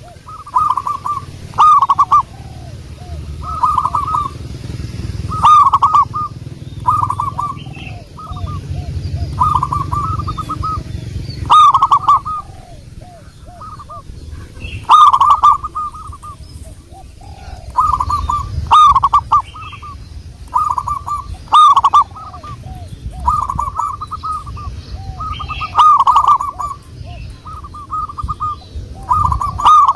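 Zebra dove cooing: repeated short phrases of quick bubbling notes, one every second or two, each ending in a few lower notes, over a steady low rumble.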